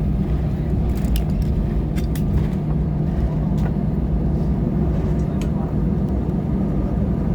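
Airbus A320 cabin noise while taxiing after landing: a steady low rumble and hum from the engines at idle, with scattered light clicks and rattles.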